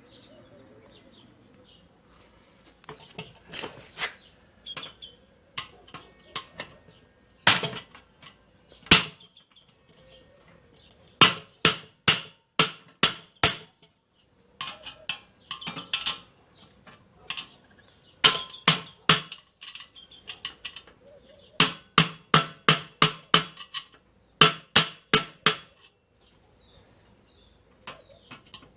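Hammer blows on thin steel, bending a part of a Weber kettle barbecue in under its legs so it sits securely. Sharp metallic strikes with a short ring come in irregular runs of a few blows a second, with pauses between the runs.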